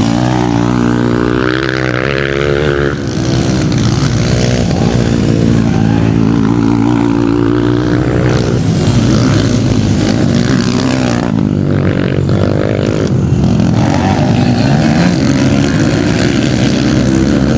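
Motocross bike engines revving up and down as they race, the engine pitch rising and falling over and over.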